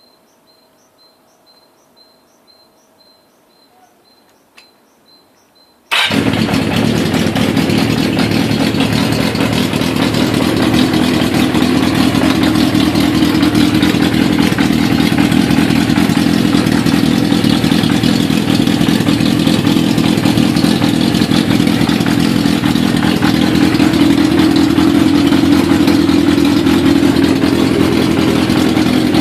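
Yamaha XJ400 motorcycle's air-cooled inline-four engine starting abruptly about six seconds in, then running steadily and loudly, its pitch lifting slightly for a few seconds near the end.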